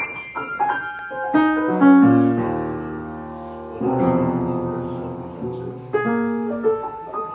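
Piano music: a short run of single notes, then two held chords that ring and slowly fade, then more single notes.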